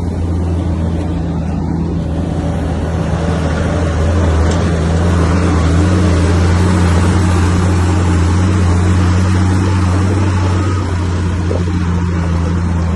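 Komatsu bulldozer's diesel engine running with a steady low drone, growing louder and noisier for several seconds in the middle as it works.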